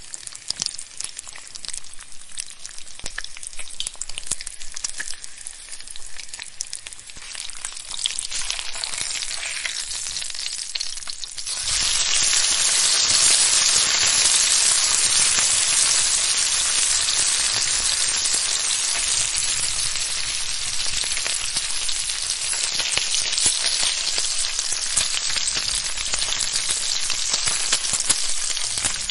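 Rain falling, at first light with separate drop ticks, then much heavier and denser as a steady downpour hiss from a little over a third of the way in.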